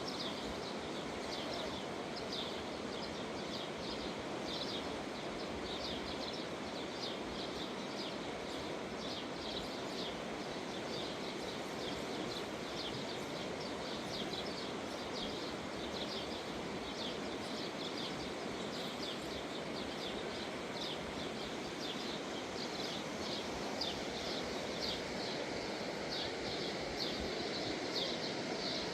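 Small birds chirping: short high chirps several times a second, over a steady rushing outdoor background noise.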